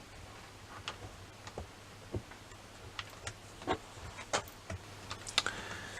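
Small, irregular plastic clicks and taps as a steering link is pressed onto an RC car chassis by hand, about a dozen light clicks spread unevenly over a faint low hum.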